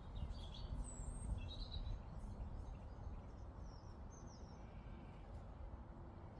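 Songbirds chirping in short phrases, a few notes in the first two seconds and fainter ones about four seconds in, over a steady low background rumble.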